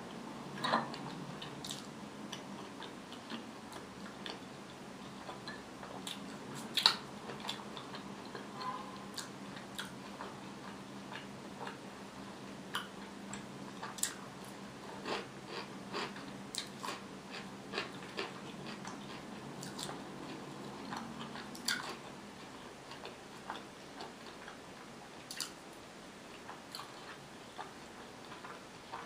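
Close-miked chewing and biting of fried potatoes and pickled cucumber: irregular wet mouth clicks and small crunches, a few sharper ones early on, over a faint steady low hum that fades out about two-thirds of the way through.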